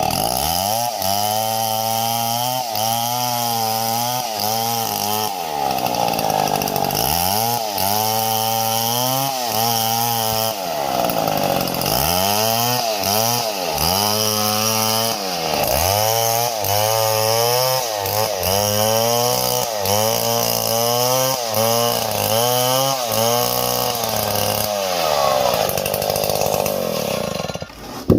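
Small chainsaw running under load while cutting wood, its engine pitch repeatedly sagging and climbing back as the chain bites into the wood and frees. The sound cuts off abruptly near the end.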